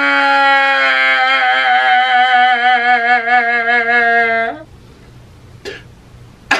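A man's long, loud drawn-out wail held on one pitch that sags slightly, then wavers, and cuts off sharply after about four and a half seconds.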